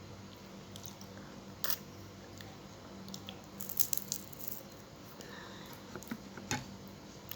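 Close-miked eating: chewing and biting fried tilapia, with a few sharp crunches around two seconds, four seconds and six and a half seconds in, over a faint steady low hum.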